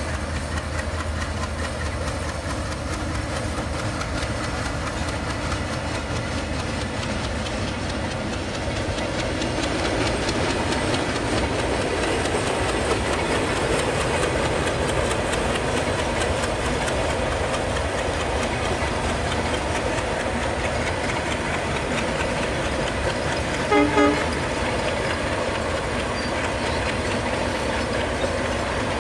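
Diesel-hauled express train passing, a steady rumble of the locomotive and then a long line of coaches rolling by on the rails, growing a little louder about a third of the way in. Near the end a horn sounds in two short blasts, the loudest thing heard.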